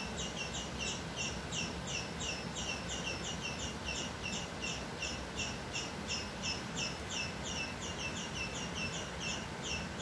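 A small bird chirping over and over in a steady, even rhythm, about three to four short high notes a second.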